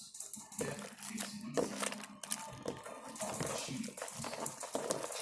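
Hands kneading sticky homemade glue slime in a bowl, a dense irregular crackling and clicking.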